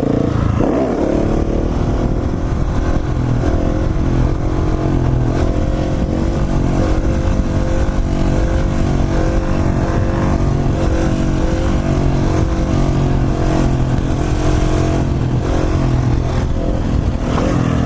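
Husqvarna 701 supermoto's single-cylinder engine running under way at a fairly steady pitch, with small rises and falls in revs.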